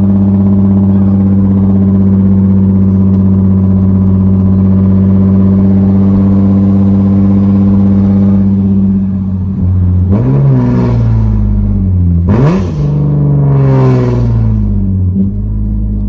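Nissan 370Z's 3.7-litre V6 running through a straight pipe with no muffler and no catalytic converters, holding a steady note, then revved a few times in the second half, the pitch rising and falling with each blip.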